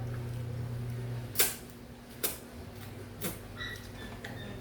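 Eating noises at a meal: three sharp clicks about a second apart, over a low steady hum that shifts down in pitch partway through.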